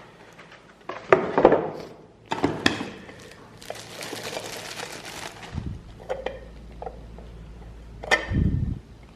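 Unboxing handling sounds: hard parts and packaging knocked and set down in three groups of clinks and knocks, the last with a dull thud, and a short rustle in the middle.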